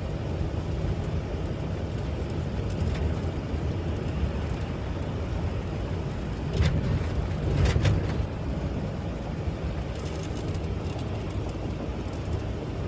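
Steady low engine and road rumble of a semi truck heard inside the cab while driving, with a short louder surge of noise about seven seconds in.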